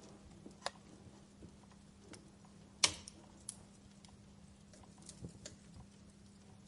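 Wood fire crackling: scattered pops and snaps over a low hiss, with one loud, sharp pop about three seconds in. A faint steady hum runs underneath.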